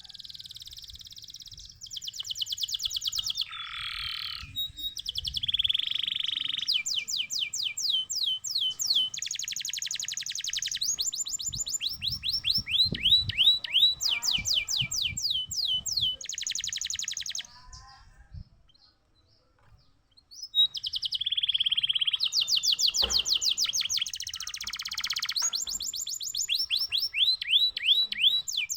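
Domestic canary singing: rapid trills and rolls of quickly repeated downward-sweeping notes alternating with buzzy runs. The song comes in two long bouts, the first breaking off about two-thirds of the way through and the second starting again a couple of seconds later.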